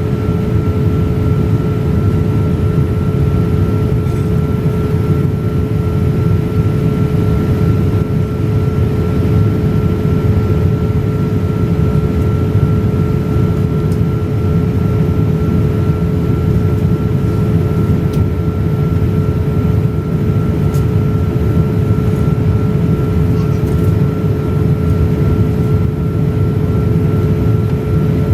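Steady in-flight cabin noise aboard a Boeing 787-8 Dreamliner: a constant low rumble of engines and rushing air, with a steady whine held on two pitches.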